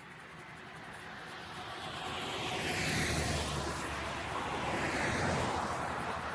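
Rushing noise of a passing vehicle, swelling over the first three seconds and then holding steady.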